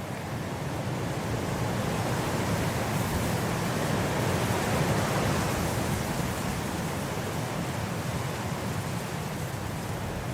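Blizzard wind blowing in a steady rush of noise, building into a stronger gust in the middle and easing a little toward the end.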